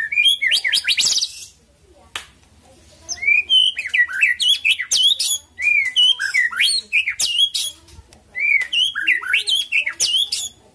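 White-rumped shama singing: four bursts of varied whistled song with short pauses between them, each burst a run of slurred notes and quick rising notes.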